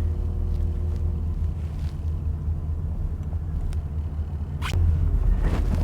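A truck driving slowly, with a steady low engine and road rumble and a few short knocks and rattles near the end.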